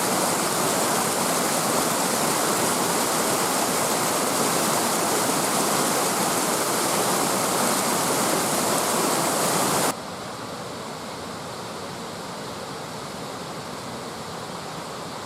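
Steady rushing water of a stream, loud and even, dropping suddenly to a quieter level about ten seconds in.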